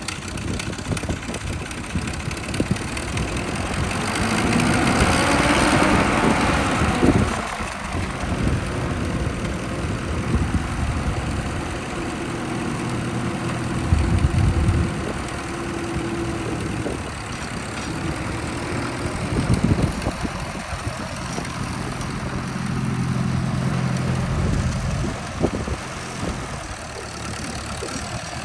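Ford 8N tractor's four-cylinder flathead engine running. It revs up about five seconds in and drops back near seven seconds, then idles with the engine speed shifting up and down a few times.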